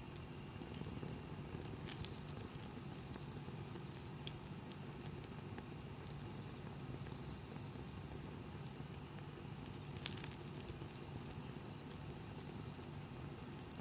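Wood campfire burning, with three sharp pops from the burning wood, the loudest about ten seconds in.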